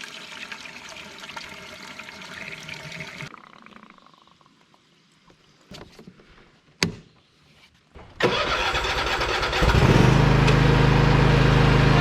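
Fuel pouring into a Toro Titan Max zero-turn mower's tank for about three seconds, then a sharp click. About eight seconds in, the mower's engine is cranked, catches, and settles into a loud, steady run.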